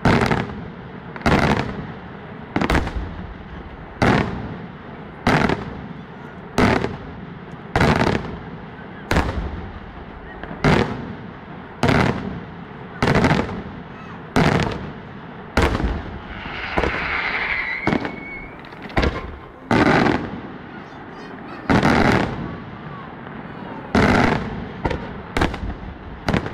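Fireworks going off in a steady string of sharp bangs, roughly one every second and a half, each dying away quickly. About two-thirds of the way through, a hissing whistle sounds between the bangs.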